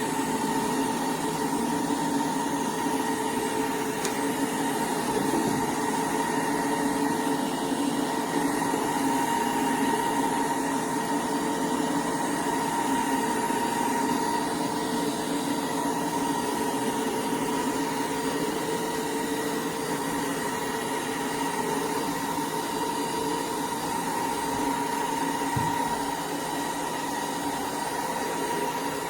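Roborock Dyad Pro wet-and-dry cordless vacuum running steadily in eco mode, a constant whirring with a high whine.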